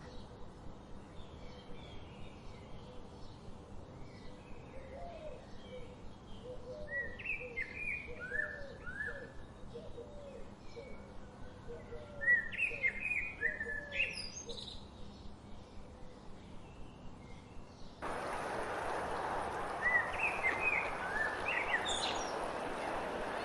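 Several wild birds singing and chirping with short rapid notes and trills, with a lower call repeated about twice a second for a while. About three-quarters of the way through, a louder steady hiss comes in abruptly under further chirps.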